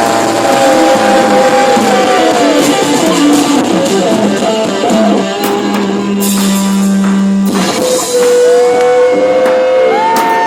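Rock music with electric guitar lines sliding and held over a drum kit.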